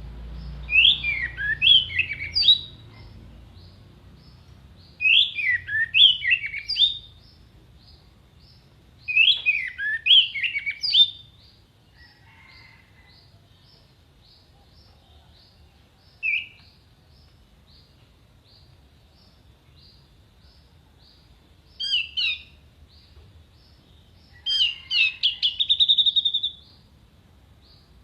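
Orange-headed thrush singing in bursts of quick, clear whistled notes that sweep up and down. There are several phrases a few seconds apart, a single short note about midway, and a fast trill near the end.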